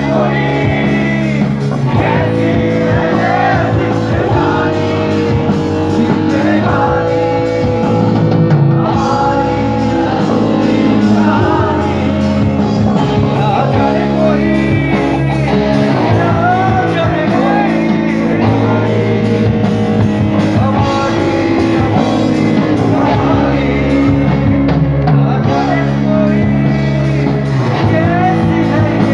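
Live band playing a rock song with a male lead vocalist singing over guitars and drums, in a large hall.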